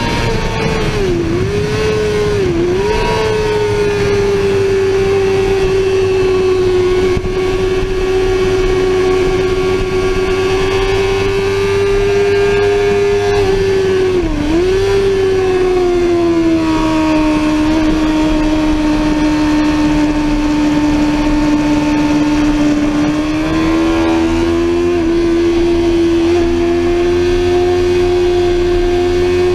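Sportbike engine running hard at high revs. The note holds steady with three brief dips, at about one, two and a half, and fourteen seconds in. It settles to a slightly lower steady pitch around sixteen seconds and climbs a little near twenty-three seconds.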